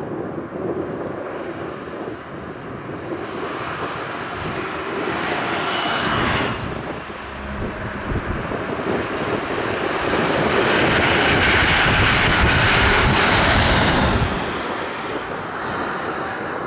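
Electric passenger trains running past on a main line: a steady rush of wheels on rails that builds, drops suddenly about six seconds in, then swells to its loudest between about ten and fourteen seconds before falling away.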